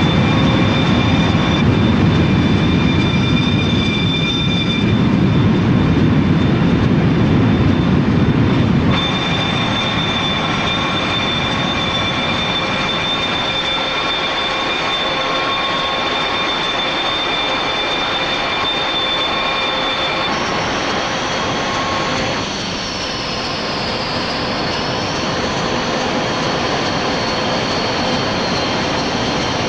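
Panavia Tornado GR1 jets' RB199 turbofan engines running, a steady rush with several high whining tones. The sound changes abruptly about nine seconds in, losing much of its deep rumble, and shifts again around twenty seconds in, when a higher tone rises and falls.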